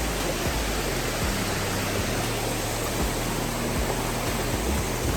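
Lisbon Falls' waterfall, a steady, unbroken rush of falling water heard from close by, with a wavering low rumble underneath.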